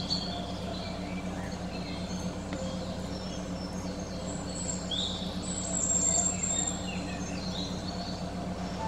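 Birds chirping and whistling, short calls and rising glides with a longer high whistle about six seconds in, over a steady low electrical hum.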